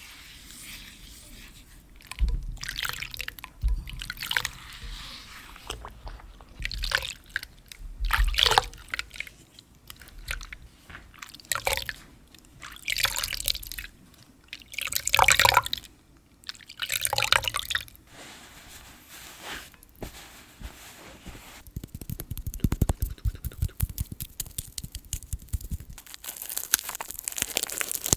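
Wet hand-washing sounds: hands rubbing soapy water and lather in short, irregular strokes, followed by a dense run of fine rapid crackling later on.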